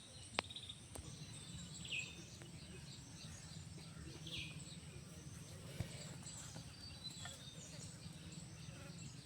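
Outdoor ambience with a small bird giving short falling chirps every couple of seconds, a few sharp clicks, and a steady low hum underneath.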